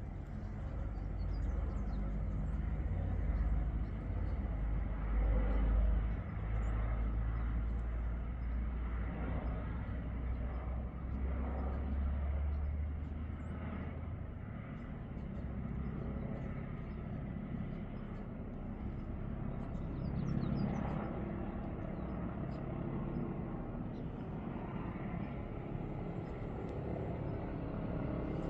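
Airbus H145 helicopter running, its rotor and twin-turbine noise heard at a distance over a low rumble that eases about halfway through.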